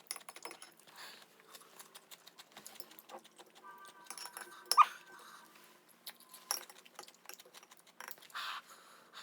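Sped-up eating and handling noises: a quick, uneven patter of small clicks and crunches from eating pickle chips, with a short squeak about five seconds in.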